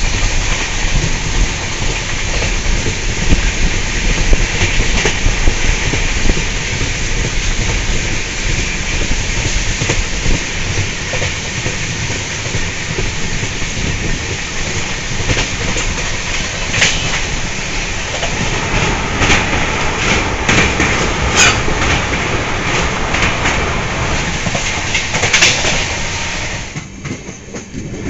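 Passenger train running at speed: a steady rumble and rush, with scattered wheel clicks over the rail joints. It quietens near the end.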